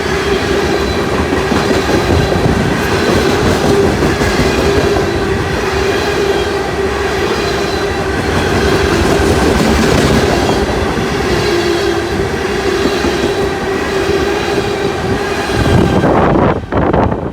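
A train running past on the rails, a steady tone held over its rumble and wheel noise. Near the end the train sound drops away, leaving gusty wind noise on the microphone.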